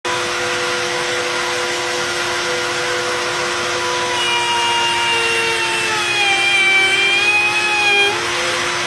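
Electric wood router running at speed with a steady high whine; about halfway through its pitch sags for a few seconds and then comes back up, as the motor is loaded by the cut.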